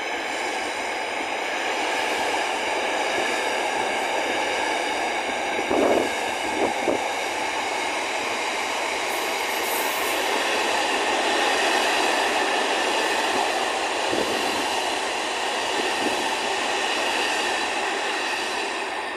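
Container freight train's wagons rolling past, a steady rush of wheels on rail with a few sharp knocks about six and seven seconds in, easing off near the end.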